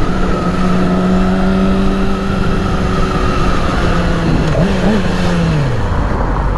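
2008 Yamaha R6's inline-four engine running at a steady cruise under the rider, with wind and road noise; just before five seconds in the pitch briefly rises, then falls away as the bike slows.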